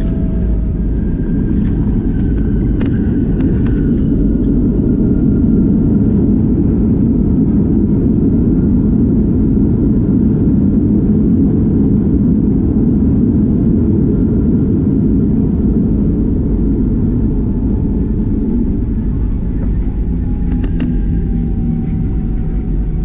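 Steady, loud rumble of an airliner's engines and airflow heard from inside the passenger cabin, with a faint whine falling slowly near the end and a few brief clicks.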